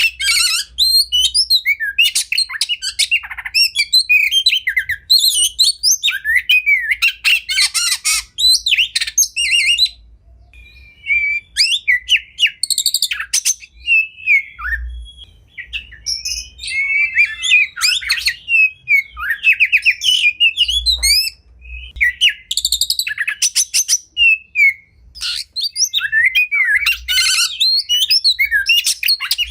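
Oriental magpie-robin (kacer) singing a fast, varied song of whistled glides and rapid rattling trills, with short pauses about a third and two-thirds of the way through.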